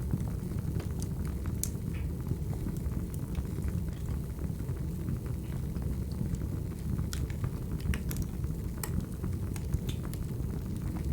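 Wood fire burning, with a steady low rumble and scattered sharp crackles and pops from the burning logs.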